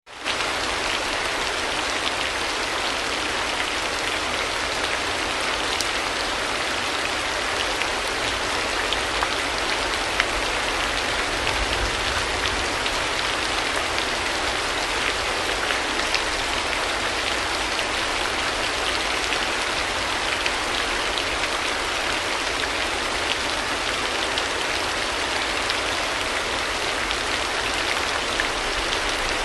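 Steady rain falling: an even hiss dotted with the small ticks of individual drops, fading in quickly at the start.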